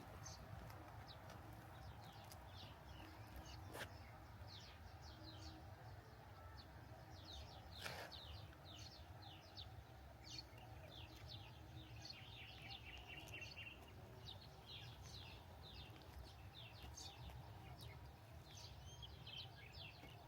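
Faint songbirds chirping over and over in short downward notes, with one quick trill about twelve seconds in, over a steady low rumble; two sharp ticks stand out about four and eight seconds in.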